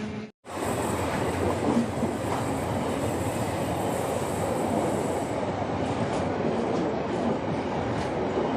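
Indian Railways 22148 Sainagar Shirdi–Dadar Superfast Express running along the track: a steady rumble of wheels on rails. It cuts out for a moment just after the start.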